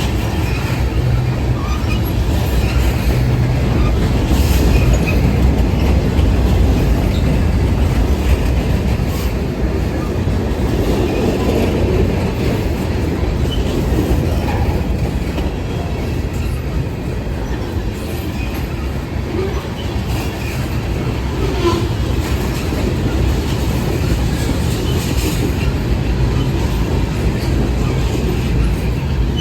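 Train rolling past with a steady rumble, its wheels clicking now and then over the rails.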